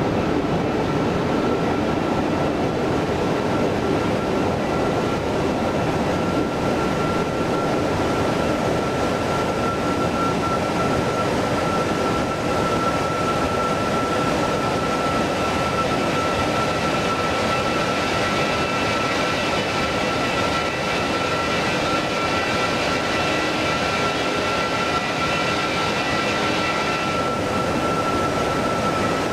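Airbus A330-300 jet engines running steadily, a constant rushing noise with a steady high whine over it.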